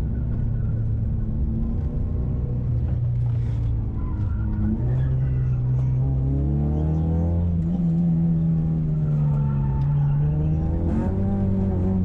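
Nissan SR20VE 2.0-litre inline-four in a 1994 Sentra SE-R, heard from inside the cabin under hard driving. The engine note holds, then climbs from about four seconds in, dips briefly, and climbs again near the end as the car accelerates.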